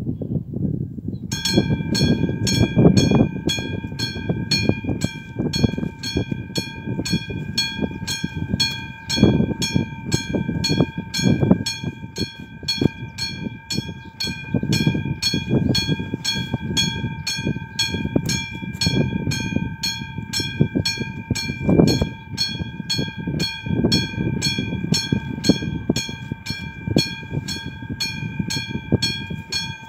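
Level-crossing warning bell of AŽD 97 crossing signals (classic bell) starts ringing about a second in and keeps striking at an even, steady rate. Underneath it, a low uneven rumble of a train.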